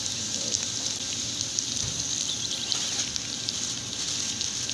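Shrimp, bell peppers and onion sizzling steadily as they are sautéed in a hot pan, with a few light clicks.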